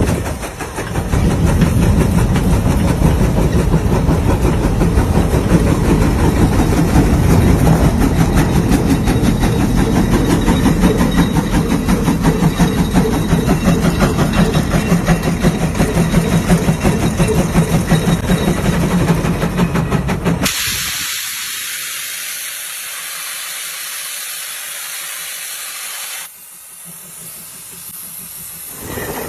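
Steam engine running, a loud dense stream of fast exhaust beats over a steady low hum. About two-thirds through this gives way abruptly to a high hiss of escaping steam, which turns quieter near the end.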